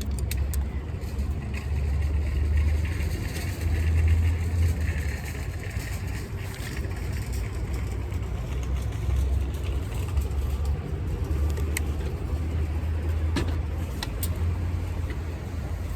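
Harley-Davidson Road Glide Ultra's V-twin engine running as the motorcycle rides, its level swelling and dipping with the throttle. A few short clicks near the end.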